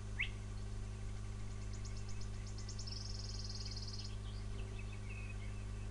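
Faint birdsong: a short rising chirp, then a run of quick high notes and, about three seconds in, a buzzy trill lasting about a second, over a steady low hum.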